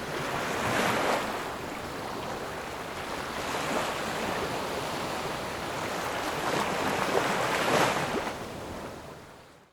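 Outdoor water and wind noise, a rushing hiss that swells a few times and fades out near the end.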